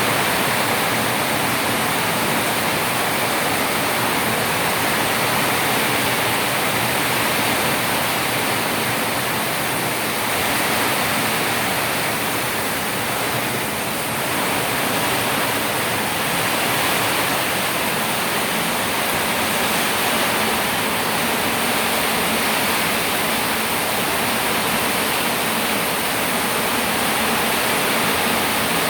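Steady rush of water, with no breaks or separate drops; it dips slightly about fourteen seconds in.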